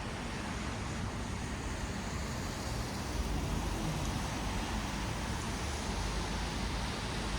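Steady traffic noise from a wet city road: tyres hissing on wet asphalt, with a low rumble of engines.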